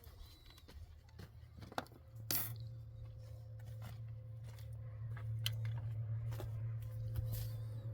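Scattered light knocks and clicks over a steady low hum that grows louder about two seconds in.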